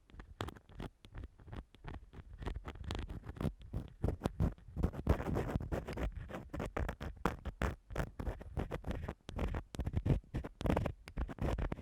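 Ear-cleaning ASMR: an ear-cleaning tool scratching and rubbing against a microphone in rapid short strokes, close-up and crackly.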